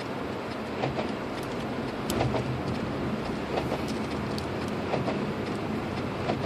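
Cabin noise of a 2006 Lexus IS250 AWD driving on a snow-covered road: steady engine hum and tyre rumble, with scattered light clicks and knocks.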